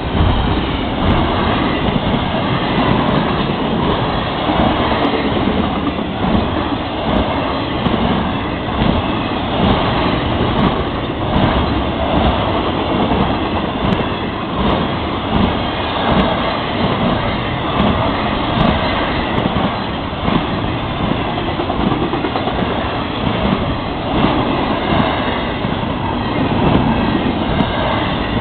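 Intermodal freight cars rolling past close by: a steady rumble of steel wheels on rail, with repeated clacks of wheels going over rail joints.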